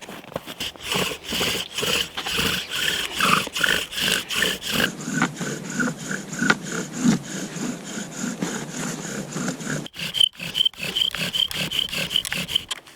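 Bow drill being worked: a Douglas fir spindle driven back and forth in a wooden fire board, giving rhythmic rubbing strokes with a short squeak on each stroke, a few strokes a second. The rhythm breaks off and changes abruptly twice, and the last part is a faster run of high, even squeaks.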